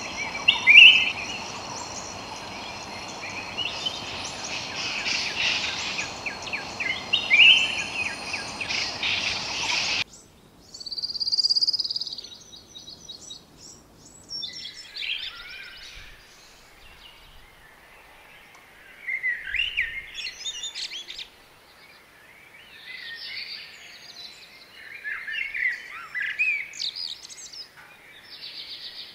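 Wild birds calling and chirping in forest. For the first ten seconds there is a steady high whine and a noisy background under the calls. After a sudden cut, short bursts of high, thin chirps stand out against a quieter background.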